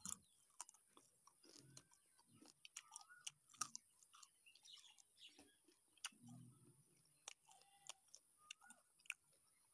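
Quiet, close-miked eating of fried chicken leg by hand: sporadic biting and chewing with many short, sharp mouth clicks and crunches.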